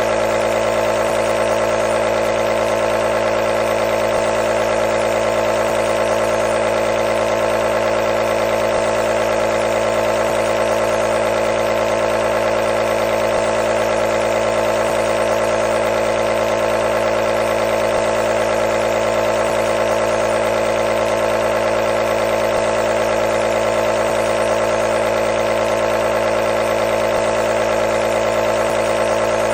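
Nebulizer compressor running continuously with a steady, unchanging mechanical hum.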